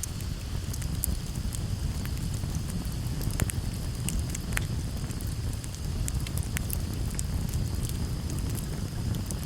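Wood campfire crackling, with many small snaps over a low steady rumble and two sharper pops about three and a half and four and a half seconds in.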